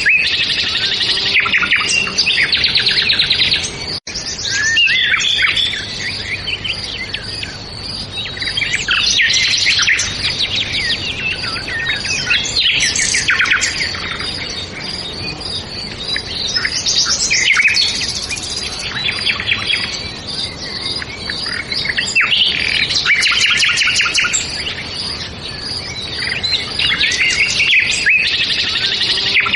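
Several songbirds singing and chirping at once, overlapping trills and quick repeated phrases with no pause between them. The sound cuts out for an instant about four seconds in.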